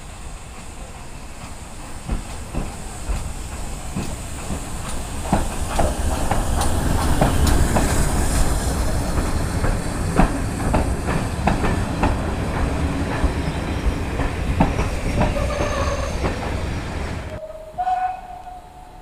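A train running past on the track, its wheels clacking over the rail joints. It grows louder to a peak about halfway, eases off, then cuts off suddenly near the end.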